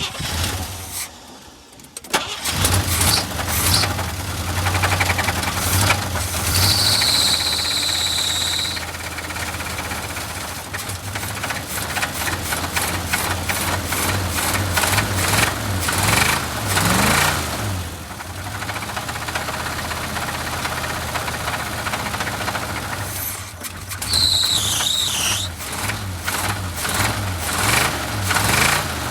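A blown car engine cranking and catching about two seconds in, then running with a knock through it, a few blips of the throttle, and a short high squeal twice. The knock is a rod knock.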